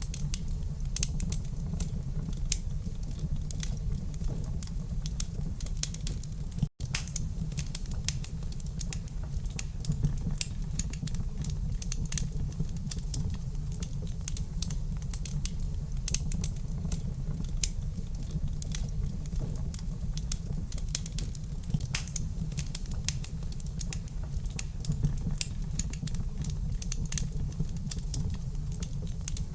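Wood fire crackling in a fireplace: frequent, irregular sharp pops and snaps over a steady low rumble. The sound cuts out for an instant about seven seconds in.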